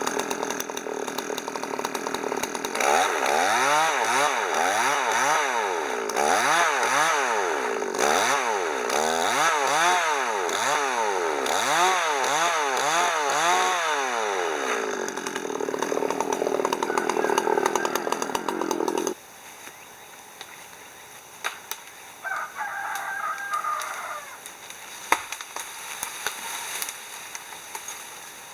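Chainsaw running hard while cutting firewood, its engine pitch rising and falling again and again, then holding steady before it cuts off suddenly about nineteen seconds in. In the quieter stretch after, a rooster crows once.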